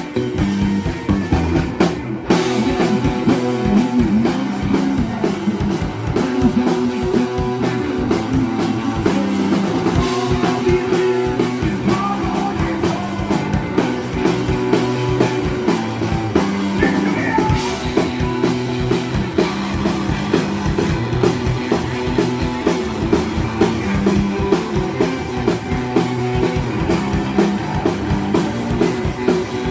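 Live rock band playing guitar over a drum kit.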